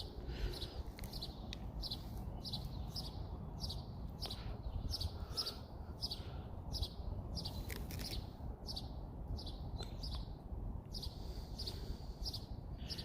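Small birds chirping, short high chirps repeated about twice a second, over a low wind rumble on the microphone.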